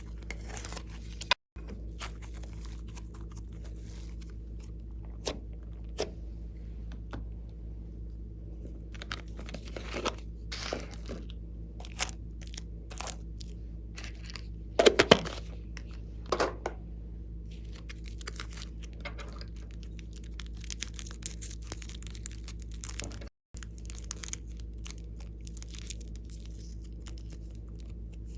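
Slime being squeezed and stretched by hand, giving irregular sticky crackles and sharp pops, loudest in a cluster about halfway through, over a steady low hum.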